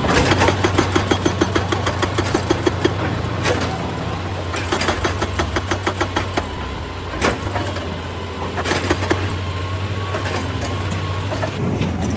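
Excavator's diesel engine running steadily under bursts of rapid, even metallic clanking, with a couple of single sharp knocks.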